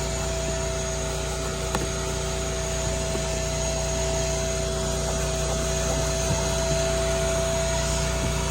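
Steady machine drone from detailing equipment running, a constant motor hum with two steady tones and no change through the whole stretch.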